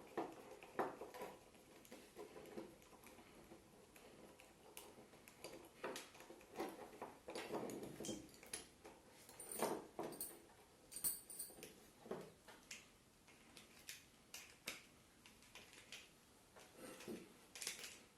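Faint, irregular clicks, taps and short scrapes of a screwdriver and hands working on the small screws and plastic body of a DP main switch. The screws are rusted and tight.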